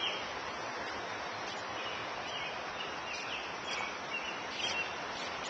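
Birds chirping, short high calls scattered every second or so over steady outdoor background noise.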